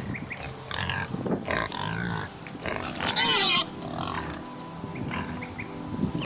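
Domestic pig grunting in short, irregular calls, with one loud, high squeal about halfway through.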